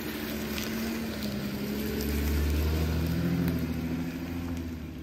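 Porsche Cayenne 955's 3.2 V6 engine running at low revs as the SUV crawls past on a dirt track, loudest about two to three seconds in as it comes closest, with a few light ticks from the tyres on loose stones.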